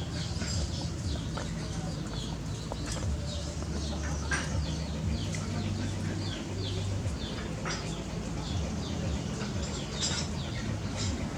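Birds chirping: many short, high chirps, each falling in pitch, scattered throughout, over a steady low hum.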